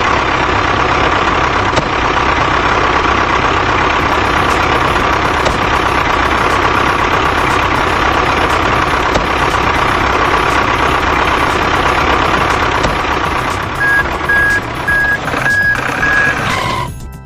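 Truck engine running with a steady rumble. Near the end a reversing alarm beeps about twice a second, and then the engine sound cuts off suddenly.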